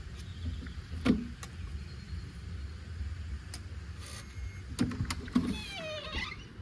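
Cabin door being unlocked and opened: a few sharp clicks and knocks over a low rumble, then a short creak about five and a half seconds in.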